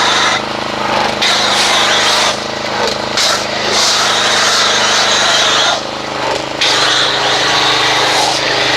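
Pressure washer running with a steady motor-and-pump hum while the foam cannon sprays with a loud hiss, the spray dropping off briefly several times as the trigger is let go. The owner suspects the pump is going bad.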